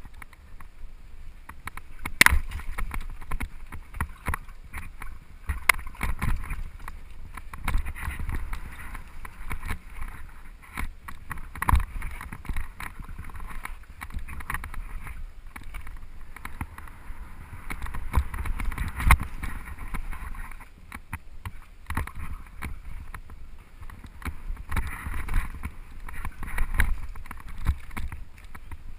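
Downhill mountain bike rattling over rough forest trail, with tyre rumble and many sharp knocks from roots and rocks hitting the bike.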